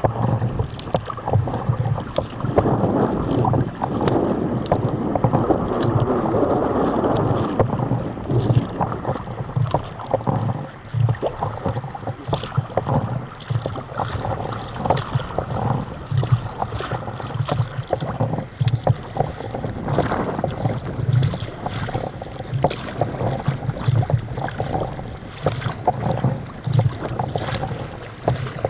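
Choppy sea water slapping and splashing against a kayak's hull in irregular strokes, with wind buffeting the microphone.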